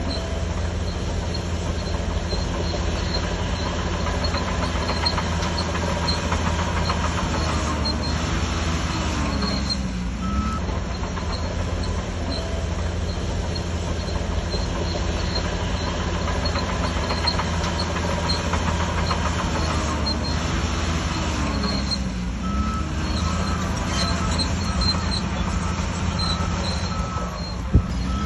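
Shantui DH17C3 crawler bulldozer working: its diesel engine runs steadily under load, and its steel tracks squeal and clank as it moves, with squeals sliding up and down about eight seconds in and again about twenty seconds in.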